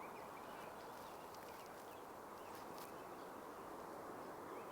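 Faint outdoor ambience: a steady, even background noise with faint, short bird chirps scattered through it.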